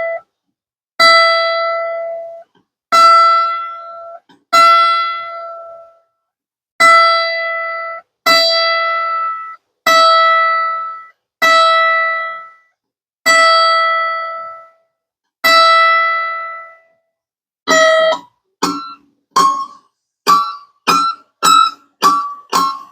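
A mandolin string plucked one note at a time, about every second and a half, each note ringing and dying away as the string is brought up to pitch. Near the end come quicker plucked notes at changing, higher pitches, several a second.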